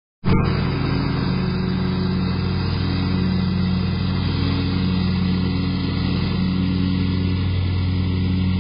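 An engine running steadily at a constant speed, cutting in abruptly a moment in.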